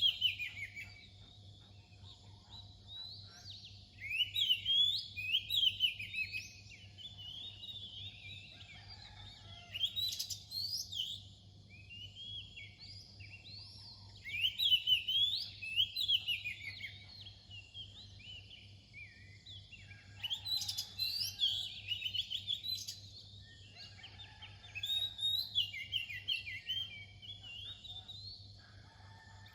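Oriental magpie-robin singing: bursts of quick, varied whistled notes, one every few seconds, with short pauses between phrases.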